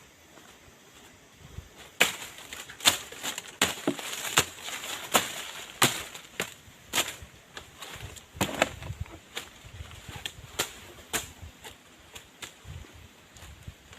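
A tool striking wood in a run of sharp, irregular blows, about one or two a second, starting about two seconds in and thinning out near the end.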